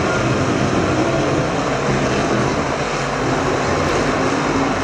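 A field of IMCA Modified dirt-track race cars running at racing speed under green, their V8 engines blending into one loud, steady drone.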